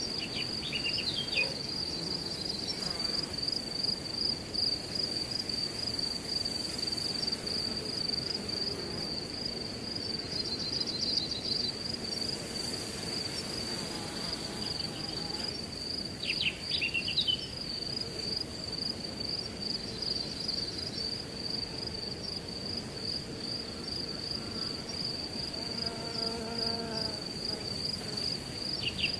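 Crickets chirping in a steady, high, pulsing trill over wind rustling through grass, with a bird's short chirping calls about a second in and again around the middle.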